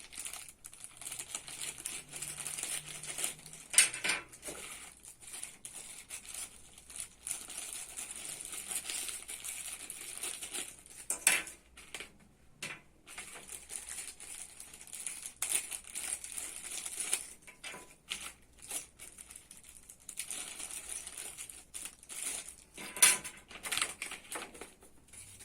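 Packaging being handled and opened: continuous crinkling and rustling of wrapping, broken by irregular sharp clicks and knocks, the loudest three spread out, near the start, in the middle and near the end.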